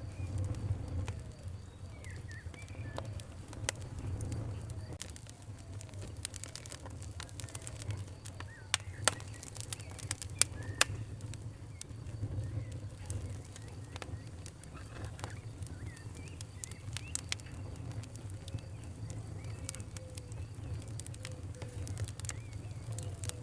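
Fire crackling, with irregular sharp pops over a low, steady rumble of flames; a few of the pops near the middle are louder. Birds call faintly in the background.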